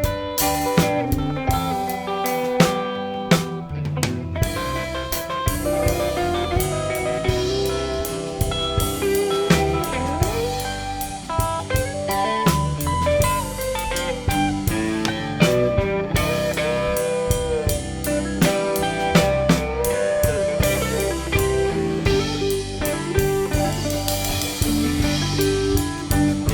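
Live blues band playing an instrumental break with no vocals: a guitar line with bent notes over a drum kit and bass.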